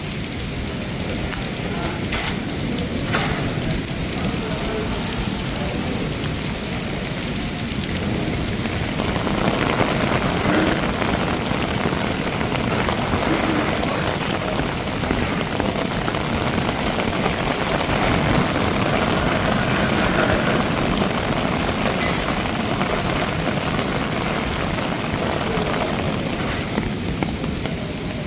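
Heavy rain falling steadily and splashing on hard surfaces, with a few sharp drip clicks early on; the downpour grows louder about nine seconds in.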